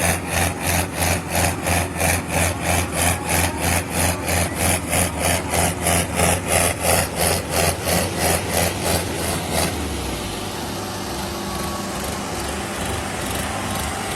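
Sonalika diesel tractor engine running hard, with a loud rhythmic rasping pulse about three times a second over a steady low drone. The pulsing stops abruptly about ten seconds in, leaving the steady engine drone.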